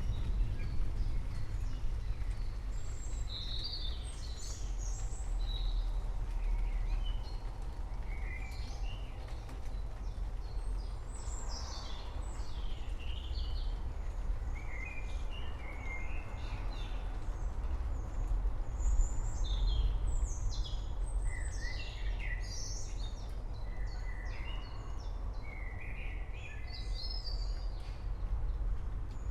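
Several forest birds chirping and trilling in quick, overlapping short phrases over a steady low rumble and an even hiss of rain.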